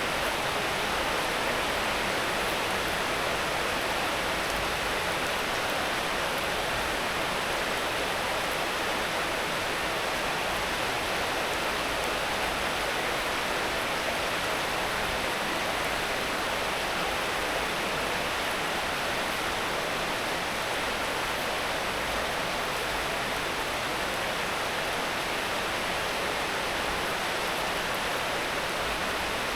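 Rain falling steadily, a dense, even hiss with no separate drops standing out.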